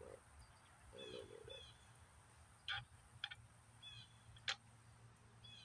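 A small bird chirping several times over quiet rural background, with a few sharp clicks from about halfway in as a 9mm chamber adapter is handled.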